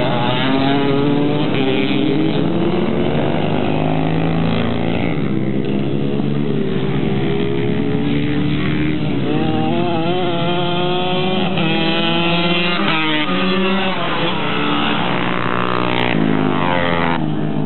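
Several racing motorcycle engines running hard, revving up and down through the gears as they go past, their pitches overlapping and rising and falling again and again.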